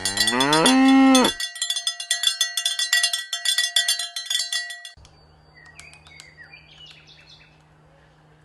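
Cowbells clanking and ringing continuously while a cow moos once, rising in pitch over about the first second. Near the five-second mark the bells cut off abruptly, leaving a faint steady hum with a few short bird chirps.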